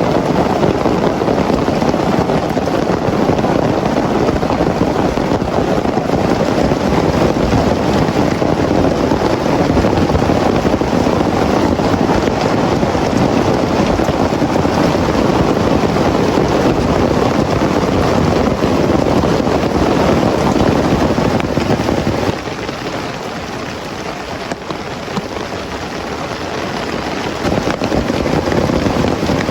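Heavy rain pouring steadily. It eases off a little for about five seconds, roughly three-quarters of the way through, then comes back as strong as before.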